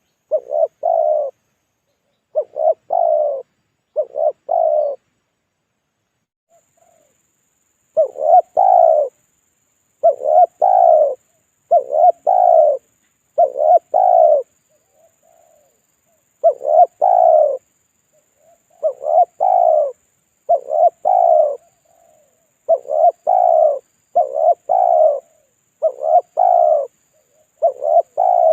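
Spotted dove (tekukur) cooing over and over: short coo phrases in runs of two or three, with a pause of a few seconds after about five seconds. It is a pikat lure call, used to draw wild spotted doves in.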